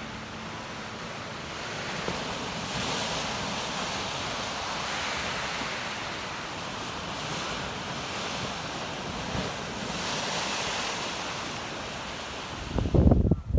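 Lake Superior surf washing ashore in a blizzard wind, swelling and easing every two to three seconds. Near the end a strong gust buffets the microphone with a loud low rumble.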